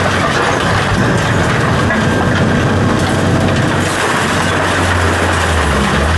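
Heavy equipment engine running steadily with a low hum, under continuous noisy crackling and grinding of material being handled or crushed.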